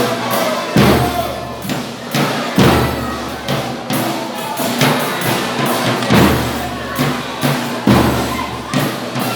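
Folia de Reis folk music with a steady, evenly paced drum beat and other instruments playing along.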